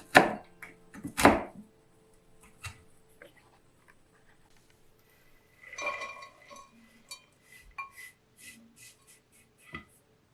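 Kitchen work sounds: two heavy chopping thuds on a board about a second apart at the start, then light clicks and short ringing clinks of utensils and dishes.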